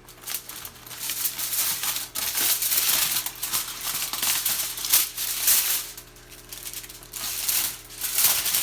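Crinkling and rustling of the wrap covering a baking dish as it is handled and pulled back, in irregular bursts with a short lull a little past the middle.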